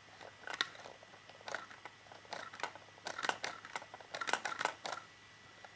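Irregular light clicks and rattles, coming in small uneven clusters and thickest in the second half.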